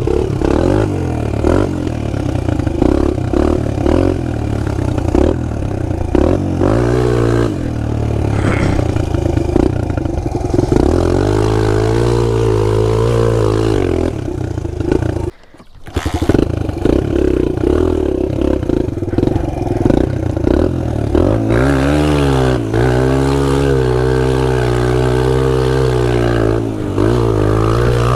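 Pit bike engine running and being revved up and down again and again as it is ridden, with the sound dropping out briefly about halfway through.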